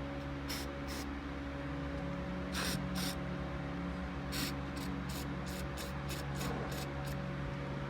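Short hissing bursts from an aerosol spray can, about a dozen of them, coming faster in the second half, over a steady low hum. The bursts are cleaner being sprayed onto corroded electrical contacts that are causing a poor connection.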